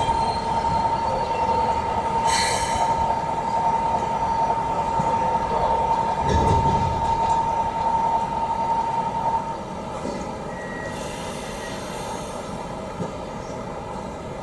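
Toei 5300 series electric train standing at a station platform. A steady high tone sounds and then stops after about nine and a half seconds, with short hisses about two seconds in and again around eleven seconds, and a low rumble about six seconds in.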